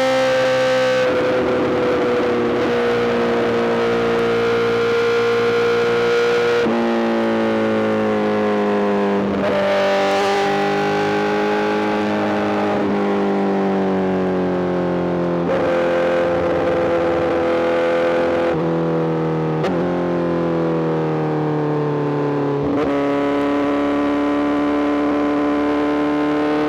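Honda CBR1000RR-R SP inline-four engine through an Arrow GP full exhaust, running under way at sustained revs. The note holds a steady pitch that sags slowly, with several sudden steps in pitch along the way.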